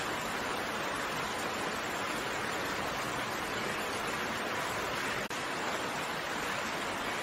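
Steady rain falling as a dense, even hiss, with a momentary dip in level about five seconds in.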